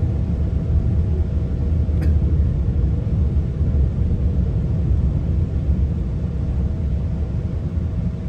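Steady low rumble of a GO Transit commuter train travelling along the track, with a faint steady hum throughout and a single light click about two seconds in.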